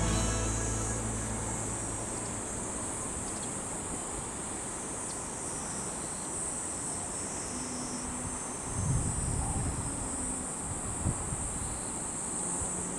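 Steady high-pitched insect chirring, with a low rumble swelling briefly about nine seconds in.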